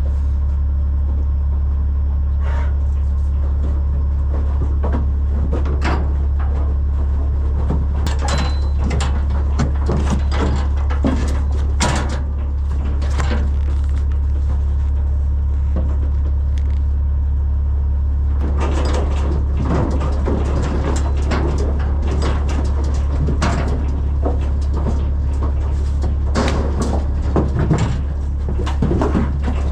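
Vehicle engine idling with a steady low drone, with scattered knocks and rattles that become busier about two-thirds of the way through.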